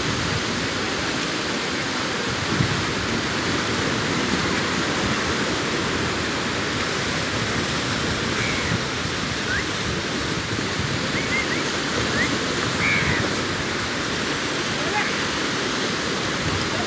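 Sea surf washing onto a beach in a continuous steady rush, with faint short high chirps or distant voices over it in the second half.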